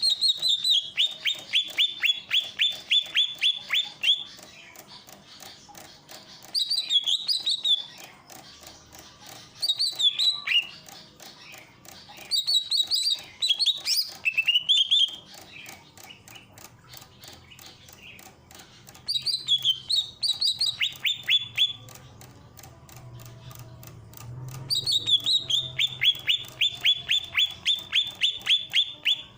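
Greater green leafbird (cucak ijo) singing in phrases of rapid, high repeated notes that fall slightly in pitch. A long phrase comes at the start and another near the end, with shorter ones and pauses between them.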